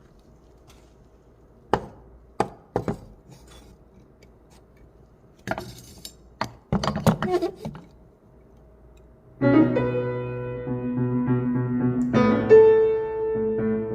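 A few sharp knocks and clinks, then about nine seconds in a piano starts playing sustained chords, struck to test whether it is in tune.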